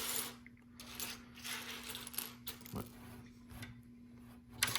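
Small plastic LEGO pieces clicking and rattling as they are handled and moved around, with a sharper click near the end.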